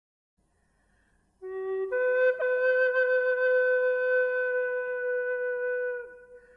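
Background music: a flute, near silent at first, plays a short low note about a second and a half in, then one long held note that lasts about four seconds before it fades.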